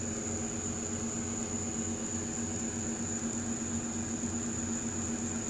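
Steady hum of an idling vehicle, with a thin steady high whine over it.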